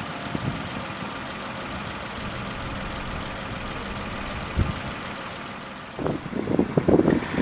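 Car engines idling in stopped traffic, a steady hum. About six seconds in, wind starts buffeting the microphone in irregular gusts.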